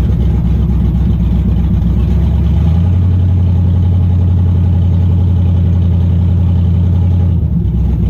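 Race truck's engine running at low, steady revs, a low drone that steps up in pitch about three seconds in and drops back near the end.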